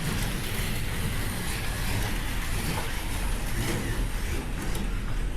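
Slot cars running laps on the track during a heat, a steady whirring of their small electric motors and tyres with no break.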